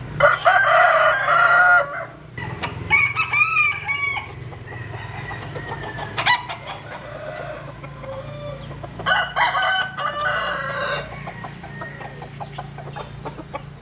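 Bantam roosters crowing: three long crows, near the start, about three seconds in and about nine seconds in, with a short sharp call between them.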